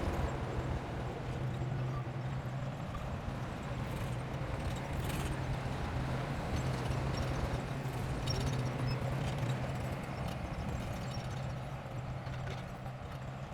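Bulldozer diesel engine running steadily under load, with irregular metallic clanking.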